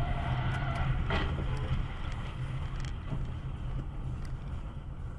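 A car in motion: steady low engine and road rumble, with two short knocks, one at the very start and one about a second in.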